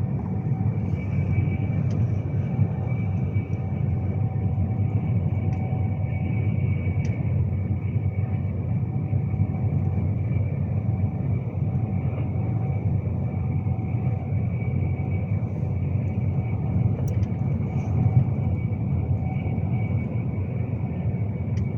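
Cabin running noise inside a Class 390 Pendolino electric train at speed: a steady low rumble of wheels on rail, with faint steady high tones above it and an occasional light tick.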